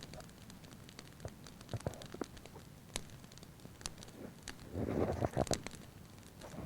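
Wood fire crackling, with sparse irregular pops and a louder burst of crackling and rustling about five seconds in.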